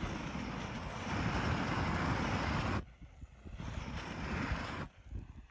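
Propane weed burner torch blowing its flame onto a wax-clogged metal mesh honey strainer: a loud, steady rushing hiss that cuts off suddenly about three seconds in, comes back for just over a second, and stops again near the end.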